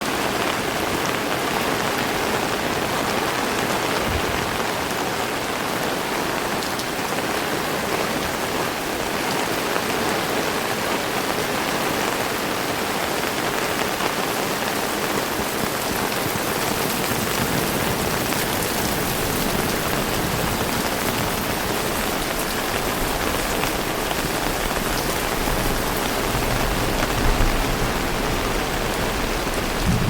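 Heavy rain falling steadily, an even hiss of countless drops. A low rumble builds in underneath near the end.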